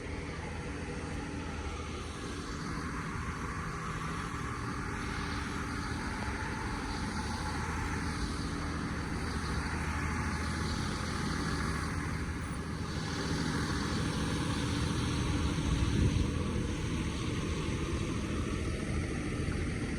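City road traffic: motor vehicle engines running with a steady low hum and tyre noise, growing louder as a vehicle passes about three-quarters of the way through.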